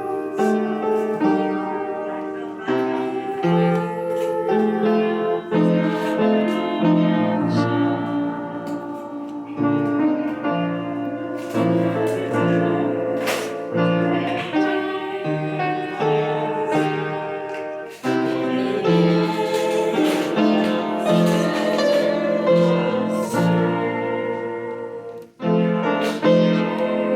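A piano being played: a song of sustained chords over a rhythmic bass line, with a brief pause about 25 seconds in before the playing goes on.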